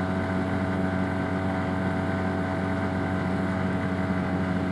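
Arctic Cat Wildcat Trail UTV's 700 cc twin-cylinder engine running at an even cruising speed, a steady hum with no change in pitch.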